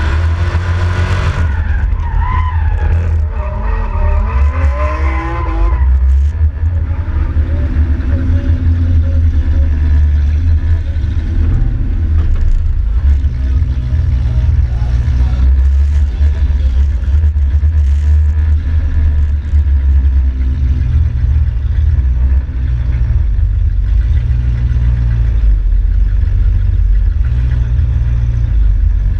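BMW drift car heard from inside its stripped, roll-caged cabin. For the first few seconds the engine revs up and down hard with tyres squealing. From about six seconds in it settles to a steady low rumble at low revs as the car rolls slowly.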